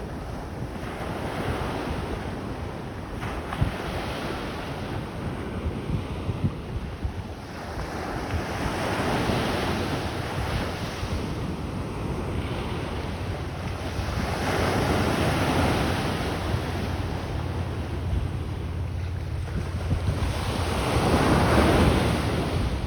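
Ocean surf breaking and washing up the beach, with several waves swelling and fading, the loudest near the end. Wind buffets the microphone with a steady low rumble.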